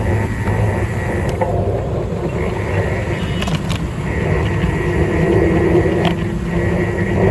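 Steady road-riding noise: a loud rumble of wheels and wind, with a low hum and a faint high steady tone underneath.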